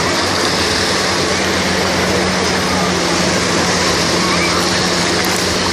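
Steady rushing noise of sea surf washing on the beach, with a faint low hum underneath.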